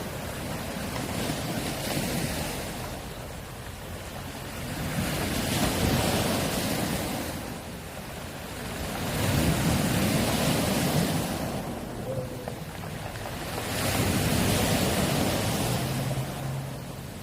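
Small waves washing onto a pebble beach, the stones rattling and rolling in the surf, in swells about every four seconds. A steady low hum begins near the end.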